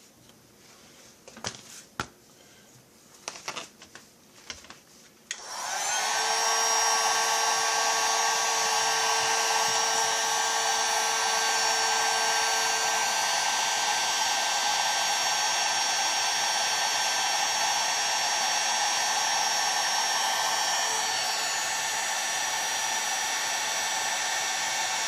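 A few light knocks, then a heat gun switches on about five seconds in and runs steadily, heating a chainsaw crankcase so the crankshaft bearing and oil seal can be fitted.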